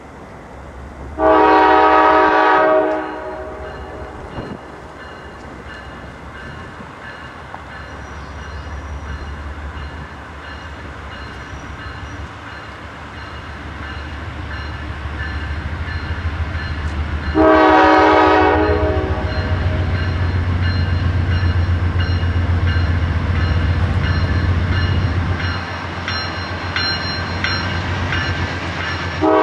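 Diesel freight locomotive's multi-chime air horn sounding two long blasts about fifteen seconds apart, with a third starting at the very end. Between them the low rumble of the locomotive's diesel engine grows louder as the train comes closer, and stays loud through the second half.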